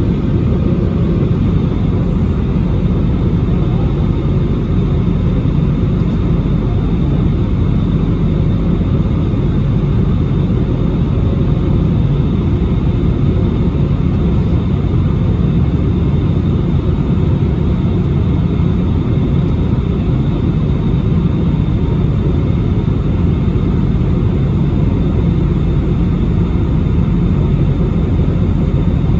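Steady cabin noise inside an Airbus A320neo in flight after takeoff: a constant low rumble of the engines and airflow with a faint high steady whine, unchanging throughout.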